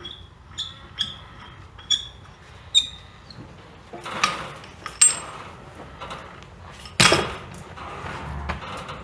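Hammer blows on metal, four sharp ringing strikes about a second apart, followed by three louder, duller knocks, as the sawmill's wooden and metal parts are knocked apart.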